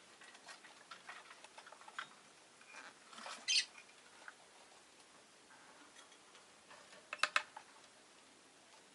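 Rosy-faced lovebird giving short, scattered chirps and clicks. There is a loud, sharp call about three and a half seconds in and a quick run of loud chirps about seven seconds in.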